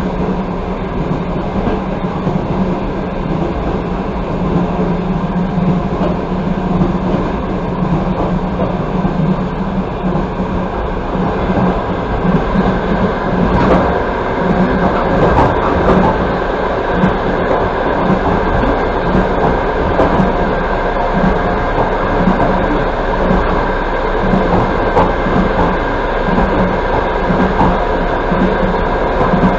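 Passenger train running at speed, heard from inside the coach: a steady rumble of wheels on rails with a low hum and occasional faint clicks.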